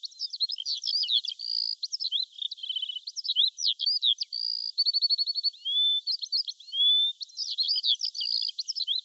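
Songbird song: a rapid, continuous run of high chirps, short buzzy trills and rising whistled notes, with a similar phrase pattern returning every several seconds.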